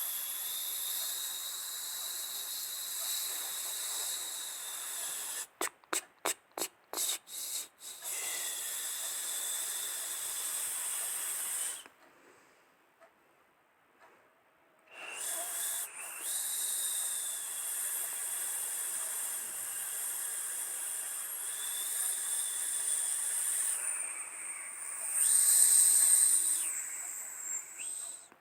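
Jet engine whine and rushing hiss with a few steady high tones, broken by a quick series of cut-outs and then a three-second gap before it resumes.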